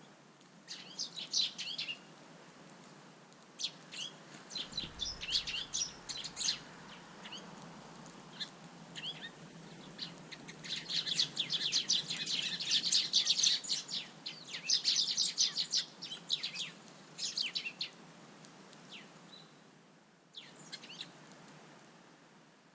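Small garden birds chirping: quick runs of short, high chirps in bursts, thickest from about eleven to sixteen seconds in.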